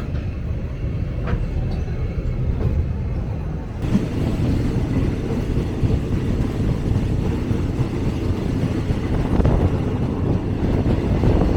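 Passenger train running on the rails, a steady rumble and rattle of the carriage heard from beside the door. It grows suddenly louder and fuller about four seconds in.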